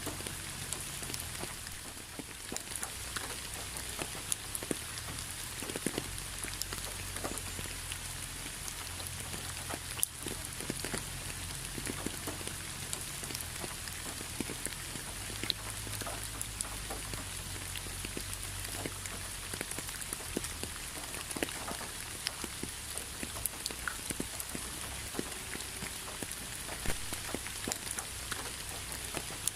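Steady rain, with many single raindrops ticking irregularly on a surface over a continuous hiss and a low rumble underneath.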